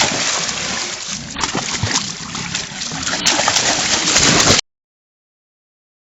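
River water sloshing and splashing, cutting off suddenly near the end.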